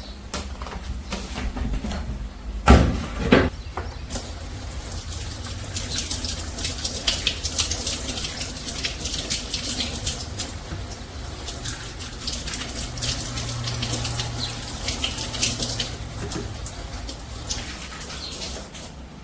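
Two loud thuds about three seconds in, then a long run of light clicks and clatter.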